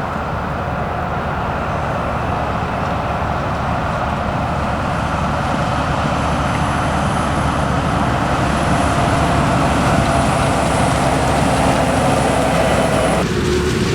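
Heavy farm machinery engines running steadily during the maize harvest, slowly growing louder, with a thin high whine above them. The sound changes abruptly shortly before the end.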